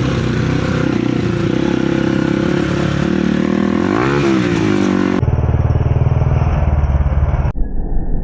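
Dirt bike engines running at a race, one revving up and dropping back about four seconds in. The sound changes abruptly twice, to a heavier, pulsing engine note and then to a thinner one.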